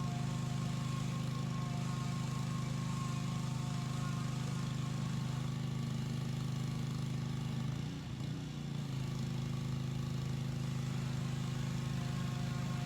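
Pressure washer running steadily, its motor drone mixed with the hiss of spray. A little past halfway the drone dips and wavers in pitch for about a second, then settles back to its steady note.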